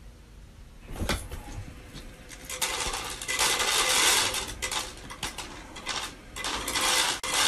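Automatic pet feeder dispensing dry cat food: a click about a second in, then kibble clattering into the feeder's tray in two spells, the first about two and a half seconds in and a shorter one near the end.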